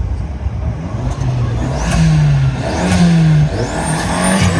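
A car engine revving several times in quick succession, its pitch stepping up and down before dropping away near the end.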